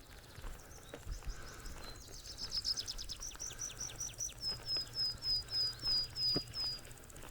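A songbird sings one high phrase. It starts as a quick run of sweeping notes and settles into an even series of about ten short, slightly falling whistled notes, over the steady rush of flowing creek water.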